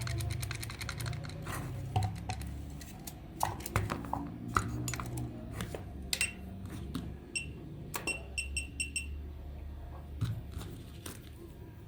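Small hard clicks and knocks of parts being handled and worked on, over a low steady hum, with a run of short high beeps about eight to nine seconds in.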